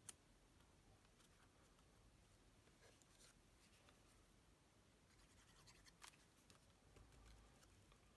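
Near silence, with a few faint clicks and light scratches of paper pieces being handled and pressed down on a card.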